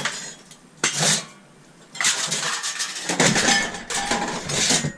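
Loose pieces of scrap steel clattering and clinking as they are rummaged through and tossed: a sharp clank at the start and another about a second in, then about three seconds of continuous rattling.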